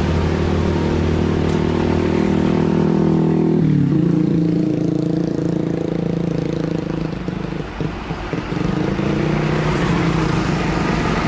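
Heavily loaded diesel truck engine pulling uphill under load. Its pitch drops sharply about four seconds in, then it runs on steadily at a lower pitch, briefly quieter a little past the middle.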